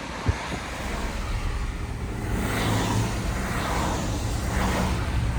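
Traffic road noise: a steady low rumble with a hiss that swells twice, as of cars passing by.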